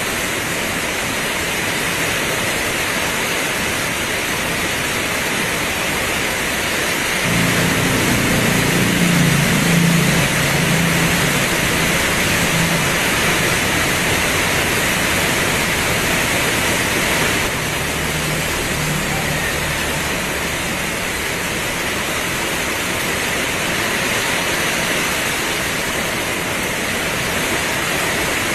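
Heavy rain pouring steadily. About a quarter of the way in, a low hum joins it for about ten seconds and then fades.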